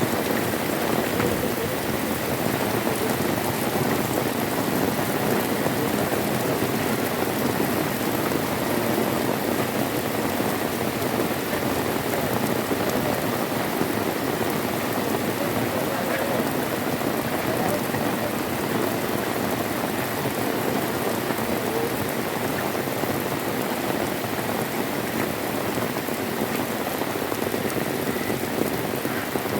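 Heavy rain falling steadily, at an even level throughout.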